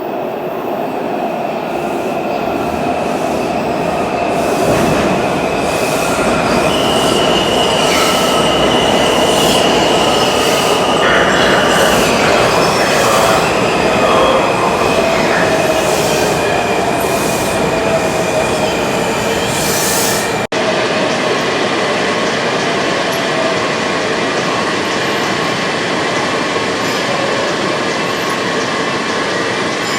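Washington Metro railcars running, with steady high wheel squeal over the rumble and a motor whine that slowly falls in pitch. The sound cuts suddenly about two-thirds of the way through to another steady train sound.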